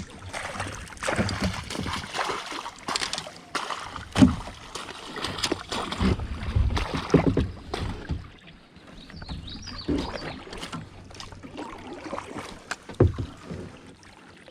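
Irregular knocks, clatter and rustling on a small plastic kayak as a just-landed bass is handled aboard, with heavier thuds near the middle.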